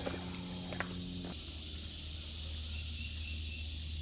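Steady chorus of crickets and other insects, a continuous high-pitched hiss, over a low steady hum.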